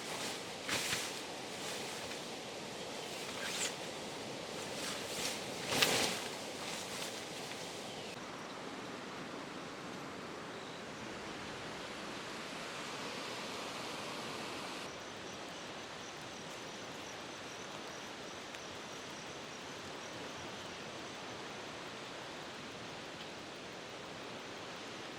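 Steady outdoor forest ambience, an even hiss of natural background noise. Several short rustles and knocks come in the first several seconds, the loudest about six seconds in, and a faint high, even trill runs through the second half.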